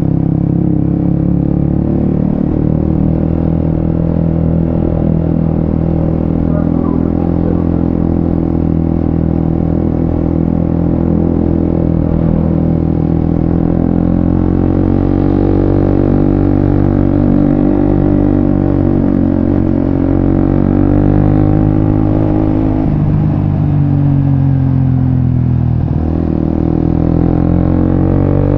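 Suzuki GSX-S150's single-cylinder engine running through an aftermarket Quinze Big Volume exhaust while riding. The pitch holds steady, then climbs from about halfway, drops sharply near the end and climbs again.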